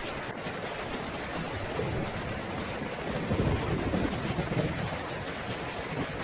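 Steady heavy rain, with a roll of thunder rumbling up and fading away in the middle.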